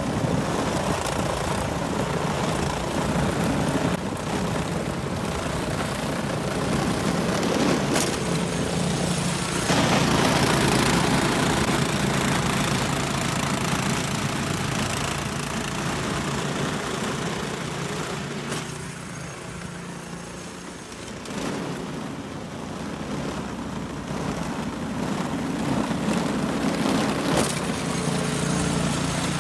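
Gas snowblower engine running steadily, dipping quieter for a couple of seconds about two-thirds of the way through before coming back up.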